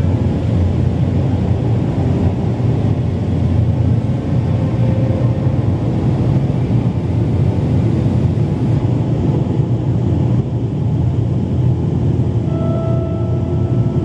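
Automatic car wash machinery heard from inside the car: a steady, loud low rumble without pauses. A few faint held musical tones sound near the start and again near the end.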